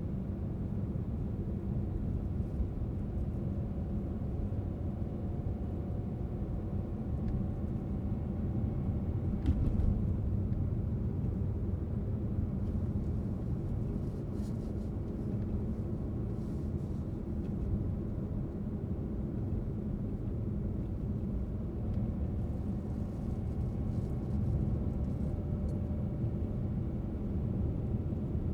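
Steady low rumble of a car driving, tyre and engine noise with no pauses, and one brief knock about ten seconds in.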